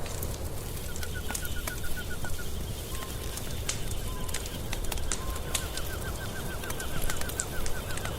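Wood fire crackling, with scattered sharp pops over a steady low rumble of burning. A rapid chirping trill of about seven or eight notes a second runs over it twice, briefly about a second in and again through the second half.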